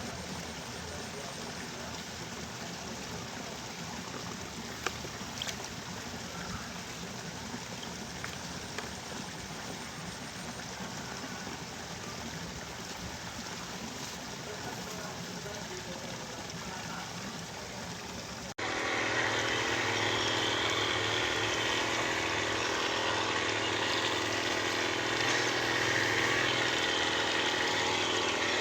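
Liquid trickling and splashing with a few light clicks. About two-thirds of the way through, an abrupt cut brings in a louder small engine running steadily at an even pitch.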